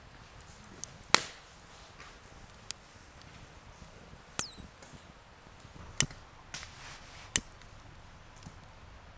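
Five sharp, separate knocks of a tool striking, irregularly spaced a second or more apart; one is followed by a brief high ring.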